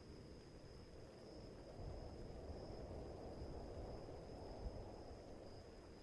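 Night storm ambience: a low rumble swells from about two seconds in and fades toward the end, over a steady high, thin tone.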